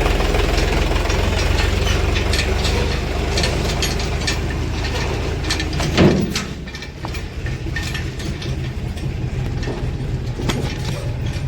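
Diesel engine of a JCB excavator running, with metallic clicking and clanking. A single loud thud comes about six seconds in, after which the engine's low rumble drops.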